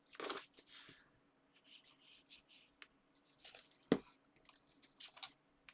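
Paper and card being handled at a craft table: a short rustling swish at the start, then small scattered rustles and clicks, with one sharp knock about four seconds in.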